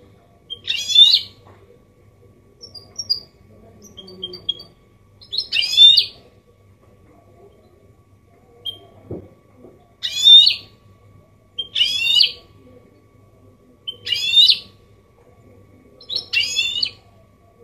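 Goldfinch mule (goldfinch hybrid) singing: short, rapid trilled phrases of high rising notes, repeated about every two seconds, with a few single chirps between them.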